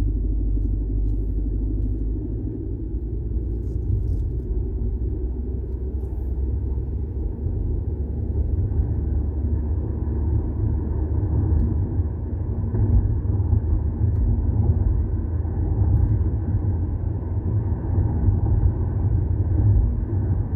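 Low, continuous rumble from a Volkswagen Golf 6 TSI, a little louder in the second half.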